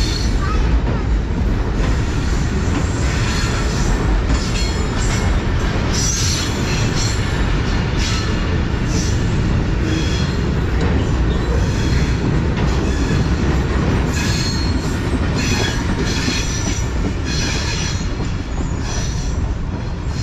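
Container freight train's wagons rolling past close by: steady wheel-on-rail noise with brief high wheel squeals every few seconds. The noise eases slightly near the end as the last wagon goes by.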